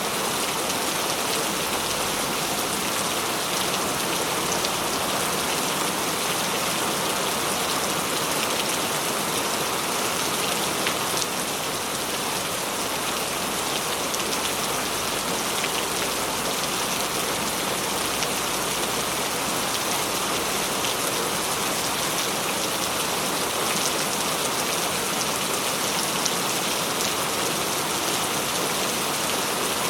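Steady heavy rain falling on a surface, an even hiss with many small drop ticks and no letup.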